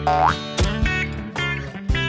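Cartoon background music with a steady beat, and a quick rising boing-like sound effect just after the start, followed by short high blips of effect sound around the middle.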